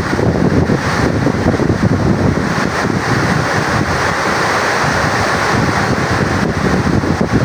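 Water rushing steadily and loudly through the Tarbela Dam's service spillway, with wind buffeting the microphone.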